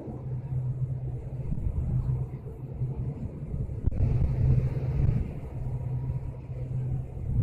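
Passenger train running along the rails, heard from on board: a steady low rumble, with one sharp click about four seconds in.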